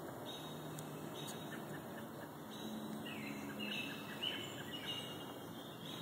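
Songbirds singing in the woods: short clear notes repeating about once a second, one sliding down in pitch about halfway through, over a faint steady background of outdoor noise.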